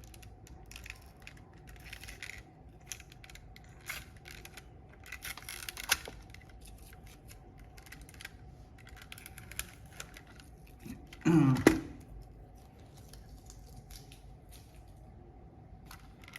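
Close handling of a plastic computer mouse: scattered small clicks and spells of rubbing and scraping as glue residue is worked off its shell, with a sharper click about six seconds in. A short murmur from a person comes about eleven seconds in, over a faint steady hum.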